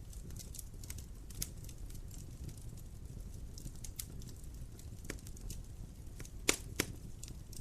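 Wood fire burning in a fireplace, crackling with scattered small snaps over a low steady rumble, and two louder pops close together near the end.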